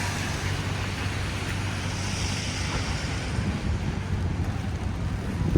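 Steady city street traffic noise: vehicles running by with a low engine hum under a continuous rushing noise, and a sudden knock at the very end.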